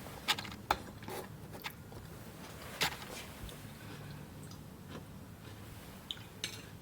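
Scattered light clicks and knocks from handling things in a home kitchen, a few sharp ones in the first three seconds, over a faint steady hum.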